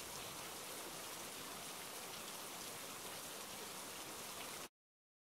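Steady rain, an even hiss of many drops that cuts off abruptly near the end.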